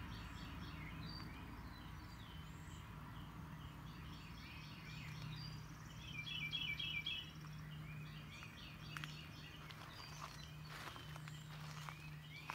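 Songbirds singing outdoors in short repeated phrases, with a louder rapid trill about six seconds in, over a faint steady low hum.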